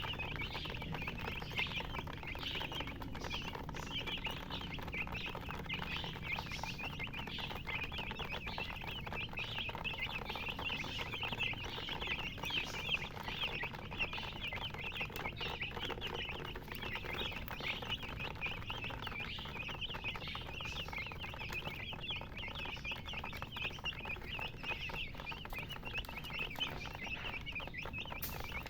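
Many domestic chicken chicks peeping at once, a continuous stream of short, high, overlapping chirps.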